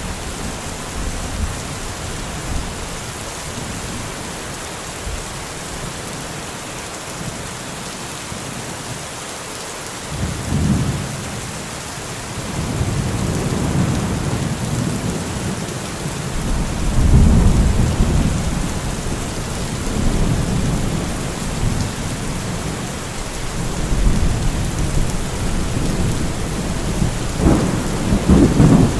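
Steady heavy rain with thunder rumbling low several times, the rumbles building from about a third of the way in, with the loudest ones past the middle and near the end.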